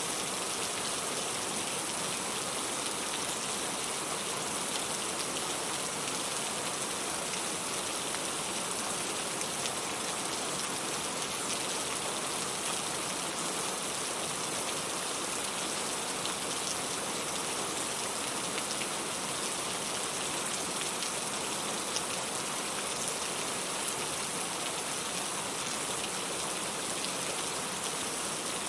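Steady rainfall, an even hiss with faint scattered drop ticks, unchanging throughout.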